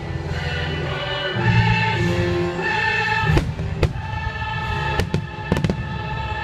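Fireworks bursting overhead with about half a dozen sharp bangs in the second half, over a show soundtrack of orchestral music with a choir singing.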